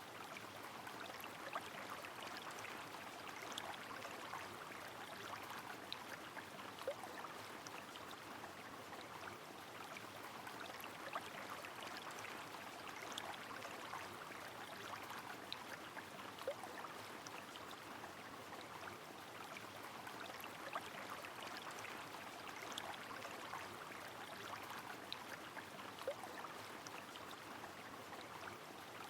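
Steady rain together with flowing river water: an even rushing hiss, dotted with scattered drip ticks and a few louder single drops.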